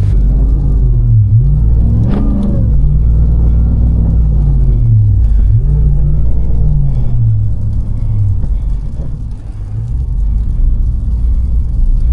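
Vehicle engine revving up and easing off again several times over a constant low rumble, as a car stuck in snow is being freed.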